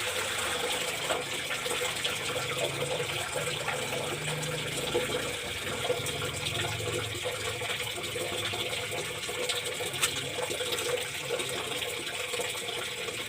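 Steady rush of water, with scattered small clicks and knocks and one sharper click about ten seconds in.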